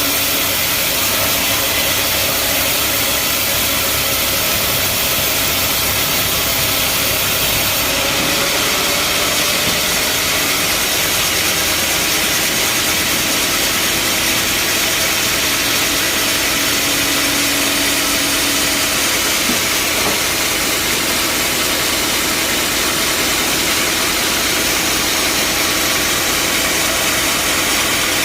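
Bandsaw sawmill machinery running with a steady, loud mechanical noise.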